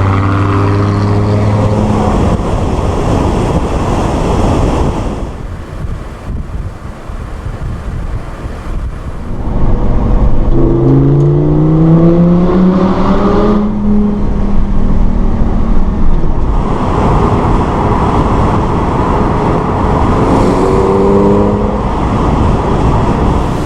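Lamborghini Gallardo Spyder's V10 engine driving. A quieter stretch of road and wind noise gives way, about ten seconds in, to a rising engine note under acceleration that levels off. Another short rise in pitch comes near the end.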